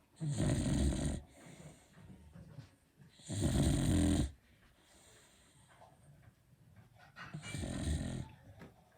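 Beagle snoring loudly in its sleep: three snores about three and a half seconds apart, each lasting about a second, with faint breathing between them.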